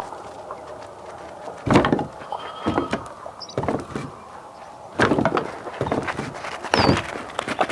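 A series of separate knocks and clatters, about six over several seconds, with a couple of short high bird chirps between them.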